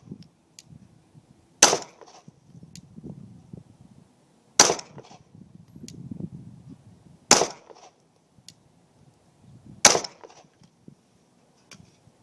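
Four single shots from a Glock 26 9mm subcompact pistol, spaced about two and a half to three seconds apart, each a sharp crack with a short ringing tail.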